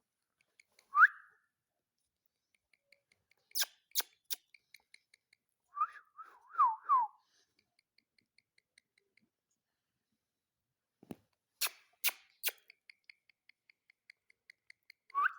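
Short whistled notes sliding in pitch: one about a second in, a quick group of three around the middle and one more at the end, with two sets of three sharp clicks between them.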